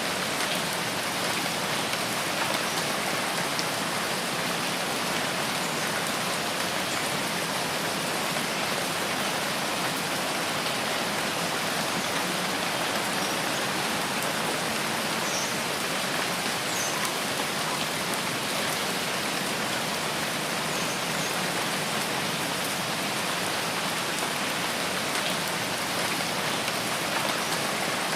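Steady rain falling in a rainforest, an even, unbroken hiss.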